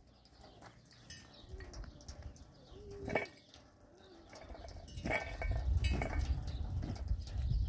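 A bird cooing softly, a few short wavering notes, over faint outdoor background; a low rumble builds in the second half.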